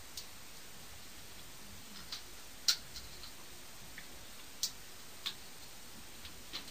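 Irregular sharp small clicks, about six over several seconds with the loudest a little under three seconds in, over a faint steady hiss.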